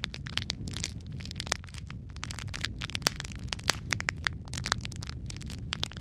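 Fireplace fire crackling: many irregular sharp pops and snaps over a steady low rumble of the flames.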